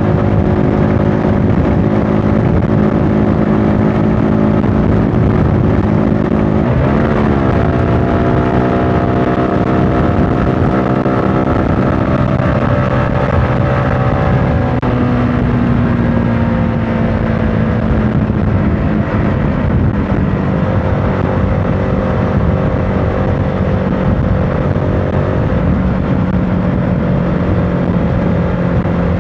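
CFMOTO motorcycle engine running steadily while riding, with wind noise on the microphone. The engine pitch dips and recovers quickly about seven seconds in, then drifts slowly lower later on.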